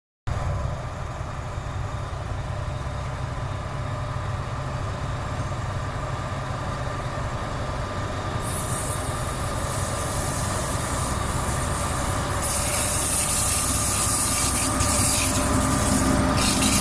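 TGM6V diesel-hydraulic shunting locomotive running, its diesel engine a steady low rumble with a faint whine, slowly getting louder. A hiss comes in about halfway and grows stronger a few seconds later.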